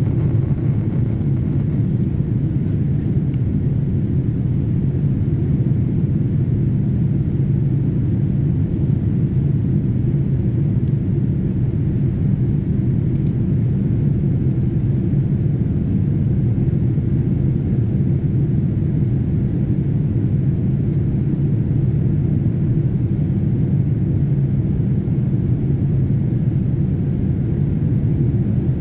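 Steady low drone of an airliner in flight, engines and airflow heard from inside the cabin, unchanging throughout.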